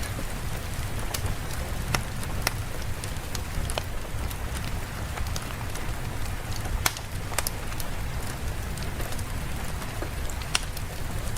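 Steady rain ambience with a deep low rumble underneath and scattered sharp clicks of drops.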